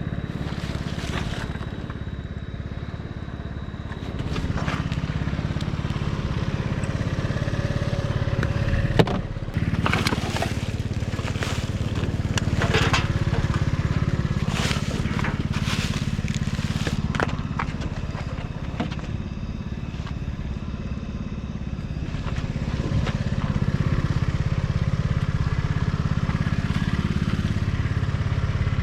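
A steady low engine hum, like an idling vehicle, runs under scattered knocks, clatter and scraping from debris being moved around in a dumpster. The sharpest knock comes about nine seconds in.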